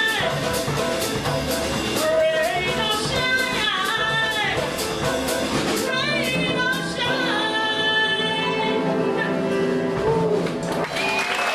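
A female jazz singer with a small band finishing a ballad, ending on one long held note over the band, with steady cymbal strokes. Applause begins just at the end.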